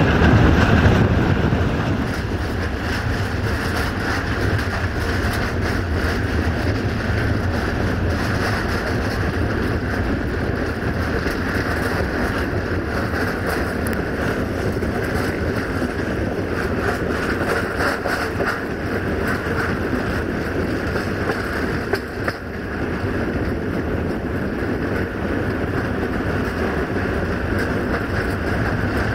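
Diesel multiple unit running along the line: a steady rumble and rush of engine and wheels, louder for the first second or two, with a brief dip about two-thirds of the way through.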